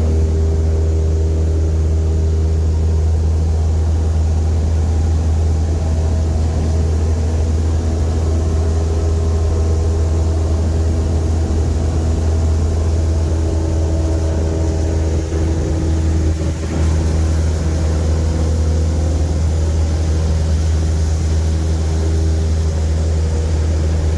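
Small airplane's piston engine and propeller droning steadily.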